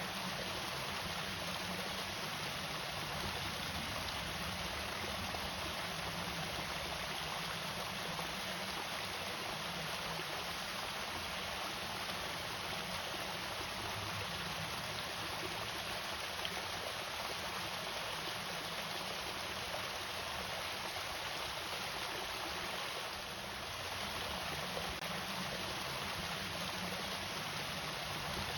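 Small irrigation waterfall: water falling and running in a steady rush, dipping briefly about three quarters of the way through.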